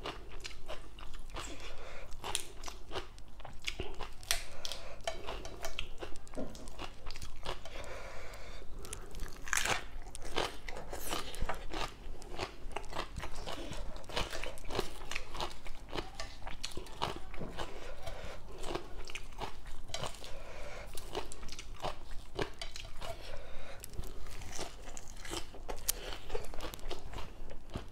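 Close-up crunching and chewing of raw vegetables and green papaya salad: crisp cabbage and lettuce leaves being bitten and chewed. It is a dense, irregular crackle of bites with louder crunches scattered through.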